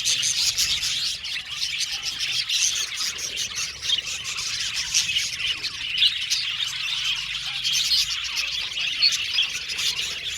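A colony of budgerigars chirping and chattering, with many short calls overlapping without a break.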